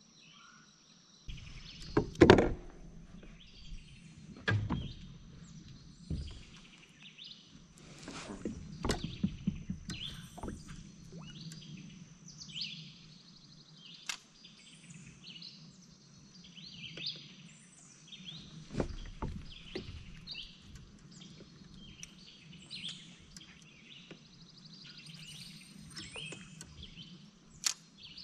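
Songbirds chirping and calling over and over around the lake, with a steady high-pitched insect tone underneath. A few knocks and thumps break in, the loudest about two seconds in and others near four, nine and nineteen seconds.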